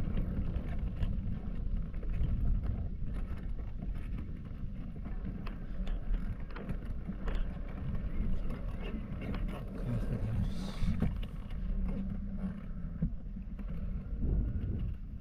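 Strong, gusty wind buffeting the microphone: a dense, wavering low rumble with scattered faint clicks.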